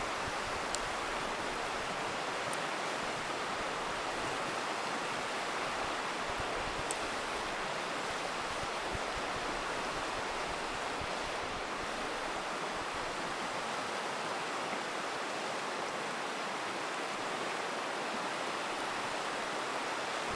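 A river rushing steadily. A few faint, sharp campfire crackles sound about a second, two and a half and seven seconds in.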